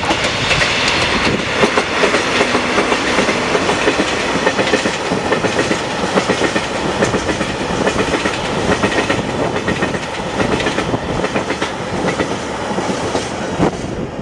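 Two DD51 diesel-hydraulic locomotives coupled in tandem pass with their engines running. A long string of tank wagons follows them, rolling past with their wheels clickety-clacking steadily over the rail joints.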